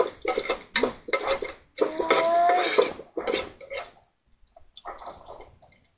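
Ginger sizzling in hot cooking oil in a stainless steel pot while a metal spoon stirs and scrapes it, dying down to a faint crackle for the last two seconds.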